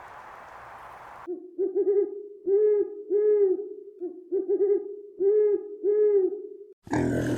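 An owl hooting in two matching phrases, each a quavering run of notes followed by two longer arched hoots. Before it, a steady hiss cuts off about a second in, and near the end a different loud noisy sound cuts in abruptly.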